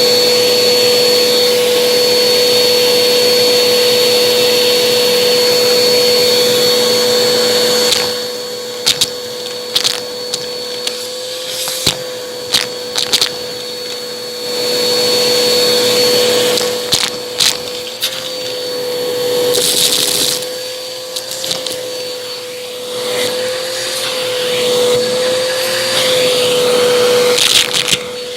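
Bissell vacuum cleaner running with a steady motor whine while its brushroll crunches debris. The sound is loud and even for the first eight seconds or so, then drops, and sharp scattered cracks and crunches follow.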